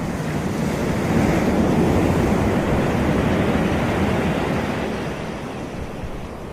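Caribbean surf on a sandy beach: a wave breaks and washes in, swelling about a second in, then slowly fading as it draws back. Some wind noise on the microphone runs under it.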